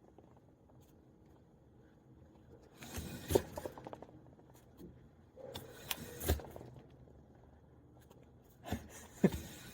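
A loose object rolling and rattling around inside a tire as the tire is moved, in three bouts about three seconds apart, each peaking in a sharp knock.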